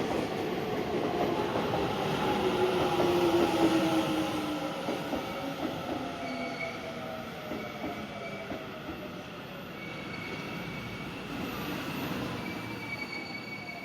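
Japanese electric local train running along the platform: wheel and motor noise with a whine that glides down in pitch, slowly fading as the train moves away. Thin high squeals come and go in the second half.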